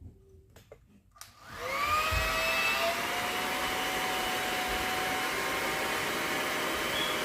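A few faint knocks, then a Conair hot-air dryer brush switches on about a second and a half in: its motor spins up with a rising whine and settles into a steady blowing rush with a high whine.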